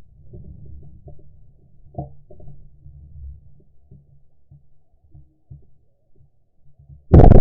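Dull thumps and rumbling handling noise from a shotgun-mounted camera as the hunter walks. Near the end comes a single sudden, very loud blast, typical of a shotgun firing at a flushed quail.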